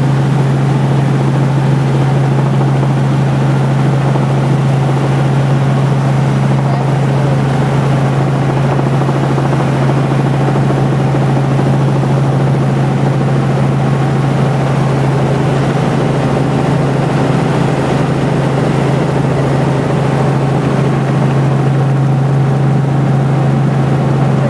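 Helicopter running steadily: a constant, unchanging drone with a strong low hum.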